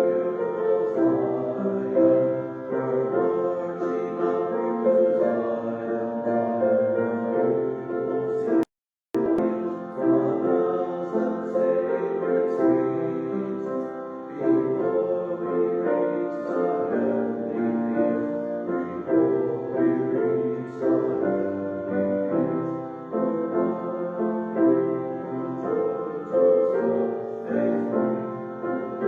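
Piano playing a hymn, with singing faintly mixed in. About nine seconds in, the sound drops out completely for about half a second, then resumes.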